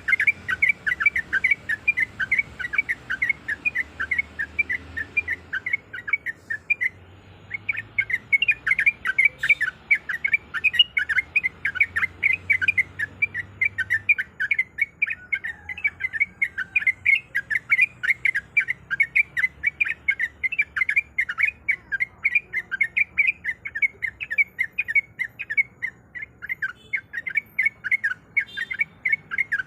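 Yellow-vented bulbul singing: a fast, continuous run of short, bright whistled notes, several a second, with a brief pause about seven seconds in.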